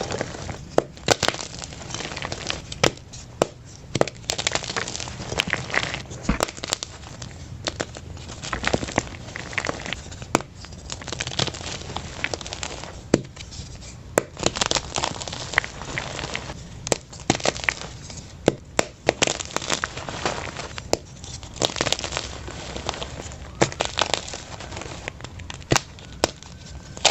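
Blocks of plain white gym chalk crushed in the hand, crumbling with dense crunching and crackling and frequent sharp snaps.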